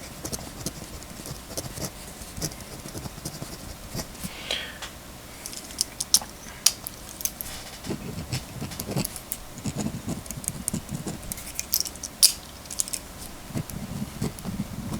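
Pilot Evolt metal-bodied mechanical pencil being handled and clicked: small irregular clicks and light taps, some sharper ones around the middle and near the end.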